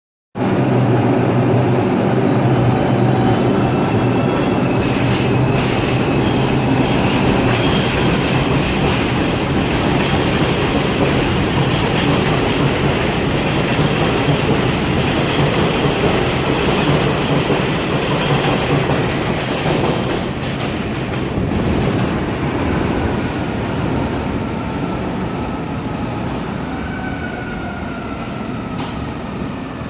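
R142 subway train pulling out of the station, running loud and steady, its sound slowly fading over the last ten seconds as it moves away.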